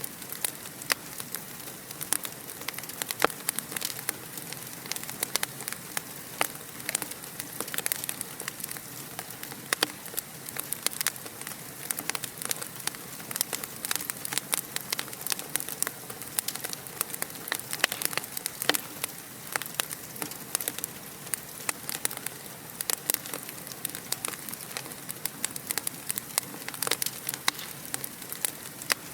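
Wood fire crackling steadily in a fireplace: a constant stream of small sharp pops and snaps over a soft hiss.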